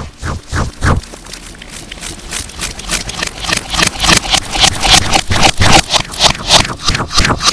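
Slime being squished and worked by hand, a fast run of wet clicks and pops, several a second, thinning out about a second in and building up again from about three seconds in; the audio is distorted.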